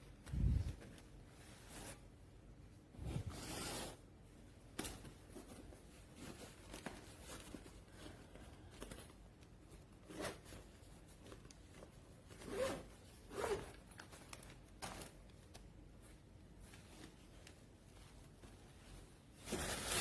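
A zippered fabric bag being handled: short zipping and rustling sounds at irregular intervals, with a low thump about half a second in.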